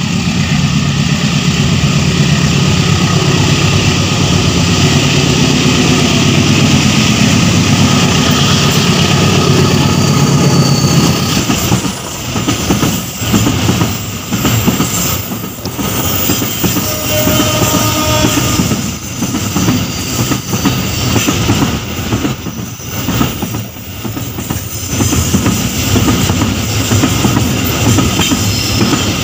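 Diesel freight locomotive passing close, its engine running steadily, then for the last two-thirds the empty freight wagons rolling by with wheels clattering over the rail joints.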